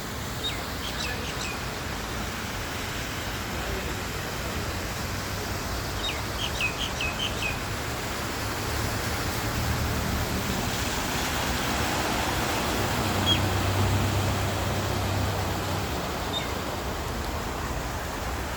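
Small birds chirping in quick runs of short high notes, twice early on and singly later, over a steady wash of outdoor noise. A low rumble swells and fades in the middle.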